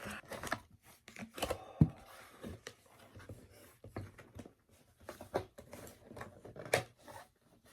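Paper takeout bag rustling and food containers clicking and knocking as takeout food is unpacked by hand, in irregular bursts with a few sharper knocks.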